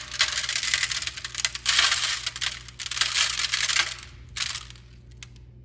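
Bird seed sprinkled by hand, the small seeds pattering and rattling as they land on the pine cone and in the baking pan beneath. It comes in dense waves, then thins to a few scattered ticks about four seconds in.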